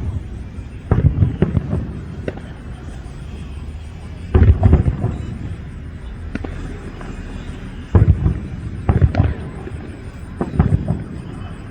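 Aerial fireworks going off: a series of booming shell bursts, five or so spaced a few seconds apart, each followed by a short crackle.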